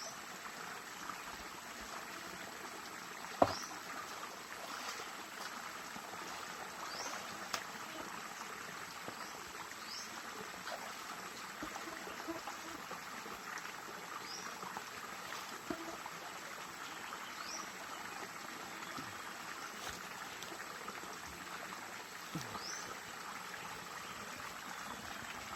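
Small stream flowing and trickling steadily, with a few light plops. A short, high, rising call repeats about every three seconds, and a sharp click about three and a half seconds in is the loudest sound.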